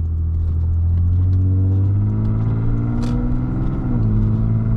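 Lexus IS250's 2.5-litre V6 accelerating, its pitch climbing steadily under load, then dropping sharply about four seconds in at an upshift and running on steady.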